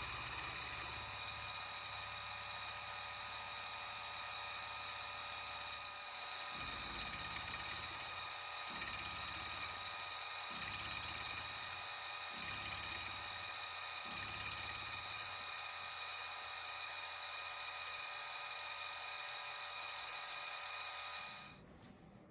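Small benchtop milling machine running steadily with a whine, a half-inch end mill cutting a pyramid pattern into a brass butt cap, with a deeper rumble coming back about every two seconds through the middle as it makes passes. The machine shuts off suddenly near the end.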